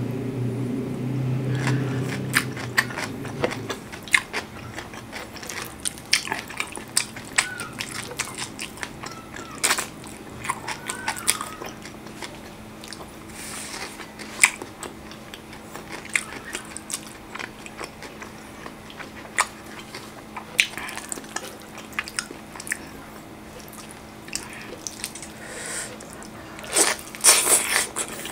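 Close-up sounds of a person eating saucy chicken and rice with the hands: wet chewing, lip-smacking and sharp clicks, with a louder cluster of smacks near the end. A low hum sounds for the first few seconds.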